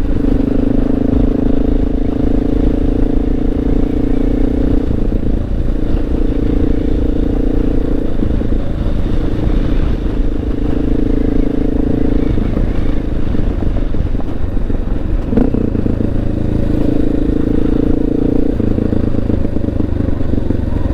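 Honda XR650L's single-cylinder engine running while riding on a gravel road, its steady note falling away and picking up again several times with throttle changes, with a quick rise in pitch about two-thirds through.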